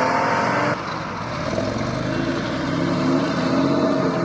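A car engine pulling away, its note climbing steadily as it accelerates, with an abrupt change in the sound about a second in.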